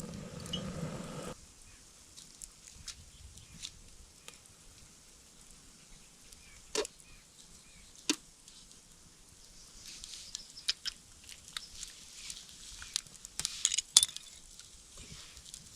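Campfire crackling, with sharp scattered pops from the burning wood, the loudest near the end, over a faint sizzle of a burger frying on the grill grate. A short rough noise sounds at the very start.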